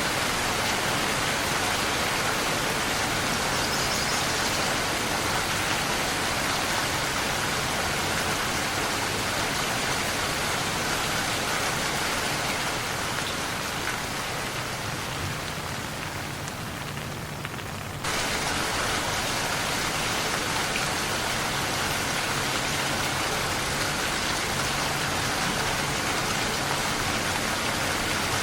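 Steady rain falling, an even hiss. About halfway through it thins and softens for a few seconds, then cuts back in abruptly at full level about two-thirds of the way in.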